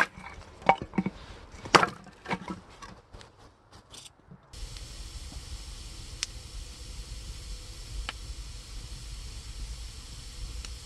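An axe splitting firewood: a sharp strike at the start, then several wooden knocks and clatters as the split pieces fall. After about four and a half seconds the sound switches abruptly to a steady hiss with a few faint ticks.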